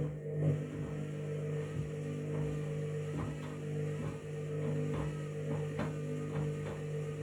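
Front-loading washing machine with a bath mat inside: a click as the motor starts, then a steady motor hum with repeated soft knocks as the drum turns the load.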